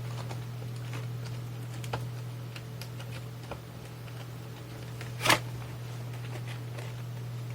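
Small clicks and taps of parts being handled during reassembly of a Tascam Portastudio 414 MKII cassette recorder, with one louder knock about five seconds in, over a steady low hum.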